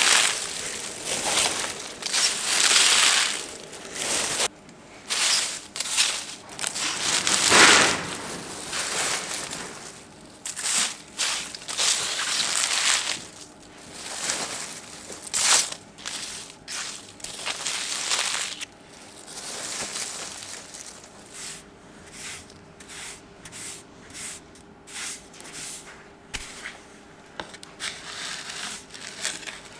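Irregular rustling, scraping and knocking of hands-on work under a car, as its underbody cover is worked loose and handled. The sounds come in uneven bursts, busiest in the first half, with a faint steady hum later on.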